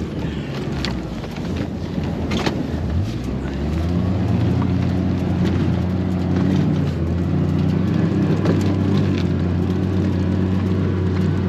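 Vehicle engine running steadily, picking up speed about three to four seconds in and then holding at the higher pitch, with two sharp clicks in the first few seconds.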